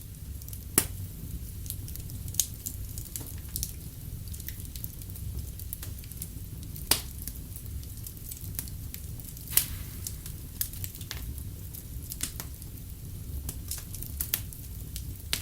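Wood fire crackling in a fireplace: a steady low rumble of burning with irregular sharp pops and snaps, a handful of them much louder than the rest.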